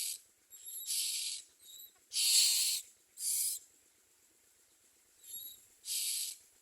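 Common myna nestlings giving harsh, hissing calls, about six short rasps at uneven spacing with a couple of fainter ones between; the loudest comes a little after two seconds in, and the calls stop about four seconds in before one more near the end.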